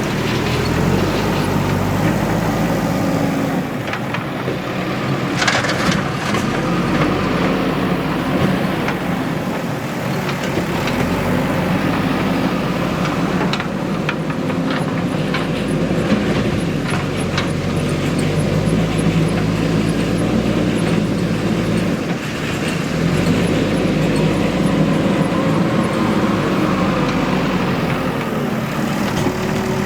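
Heavy diesel machinery running steadily, its engine note rising and falling under changing load. There are short clanks about five seconds in and a cluster of knocks midway.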